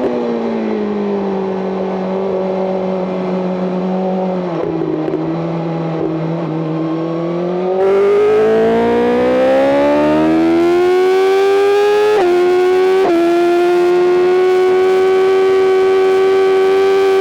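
BMW M 1000 RR's inline-four engine, heard from onboard. It winds down off throttle and runs at lower revs through a corner, then goes to full throttle about halfway through and rises steadily in pitch. Two quick upshifts make the pitch drop sharply, and the engine then holds high revs.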